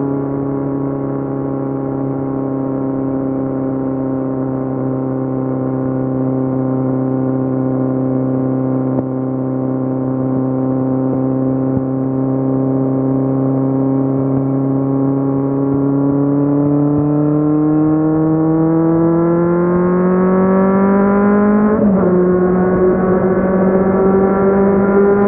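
Kawasaki Z750's inline-four engine under way, holding a steady note, then pitch rising as the bike accelerates from about two-thirds in; near the end the pitch drops abruptly at an upshift and starts climbing again.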